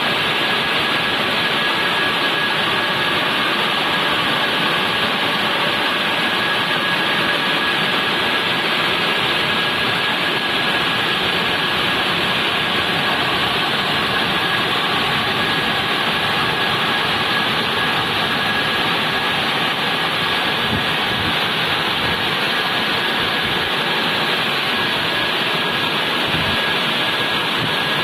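Automatic car wash machine running, a steady, loud rush of spray and motor noise with a thin steady whine above it.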